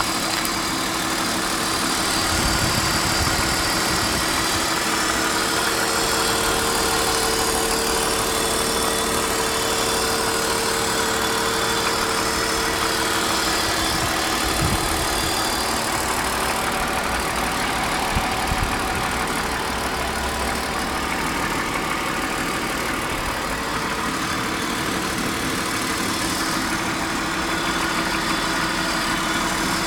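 1999 BMW 528i's M52TU 2.8-litre inline-six idling steadily after a cold start, with a knocking noise that the owner places around the intake manifold.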